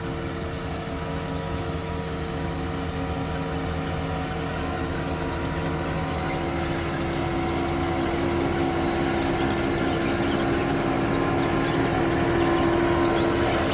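Diesel engine of a Caterpillar AP1055F asphalt paver running steadily, with a higher whine coming in about six seconds in and growing louder as the overall sound slowly builds.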